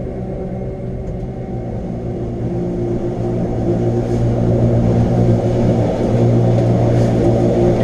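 Electric rack-railway train running, a steady motor hum that grows louder about three seconds in.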